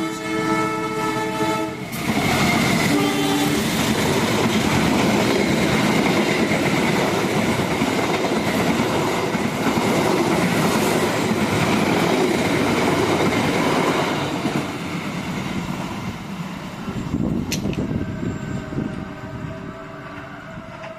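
Diesel train horn sounding a multi-note chord that cuts off about two seconds in, followed by a passenger train passing close by with a loud rush of wheel and car noise for about twelve seconds, then fading as it moves away. A short horn note comes just after the passing begins, and a fainter horn sounds near the end.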